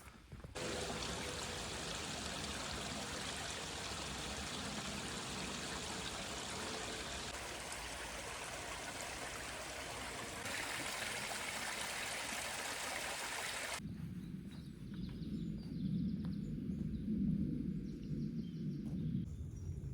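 Running water of a stream, a steady rushing hiss, in several edited shots that change its tone at each cut. After about 14 s it gives way to a low rumble with a few faint knocks.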